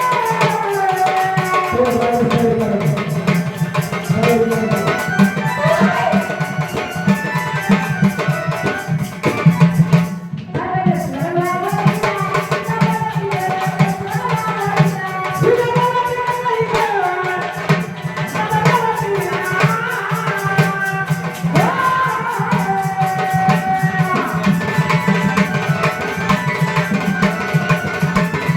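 A woman singing a Marathi devotional Ramayana katha in a gliding melodic line, over a steady tabla rhythm with rattling percussion. There is a brief break in the singing about ten seconds in.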